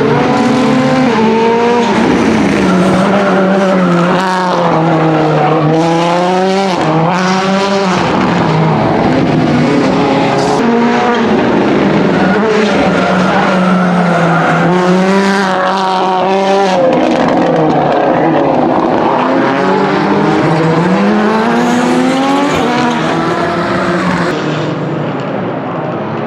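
Ford Fiesta WRC Plus rally car's 1.6-litre turbocharged four-cylinder engine at full load, its pitch rising and falling again and again as it revs up through the gears and drops off, with sharp crackles in between. The sound dulls a little near the end.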